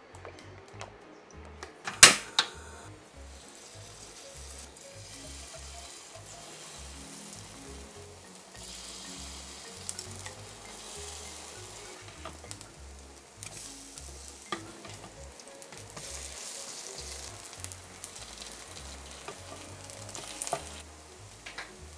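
Corn kimchi pancakes sizzling in oil in a round four-hole frying pan, the sizzle growing louder about eight seconds in as more batter goes into the pan. A sharp clack about two seconds in and a few lighter clicks of the spoon and spatula against the pan.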